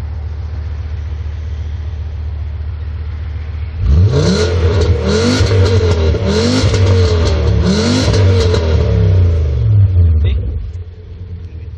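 Volkswagen Bora with an emptied-out exhaust idling, then revved hard about four seconds in with four blips of the throttle, the pitch rising on each, before dropping back to idle near the end.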